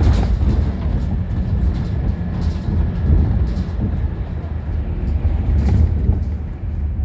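Scania Enviro300 bus heard from inside the saloon while under way: a steady low rumble of the engine and running gear that rises and falls a little, with a few light clicks and rattles.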